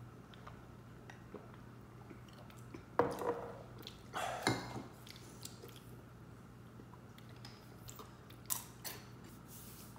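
A man biting and chewing crunchy cheese curls, with faint clicks. A couple of louder knocks or clatters come about three and four seconds in.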